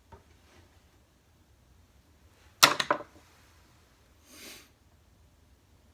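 A short clatter of several sharp knocks from hard objects being handled, about two and a half seconds in, followed a little later by a brief soft swish.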